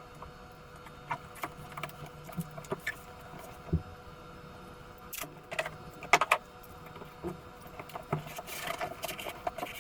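Corrugated cardboard being handled and fitted into place by hand: scattered taps, clicks and crinkles, with a brief stretch of scratchy rustling near the end. A faint steady hum runs underneath.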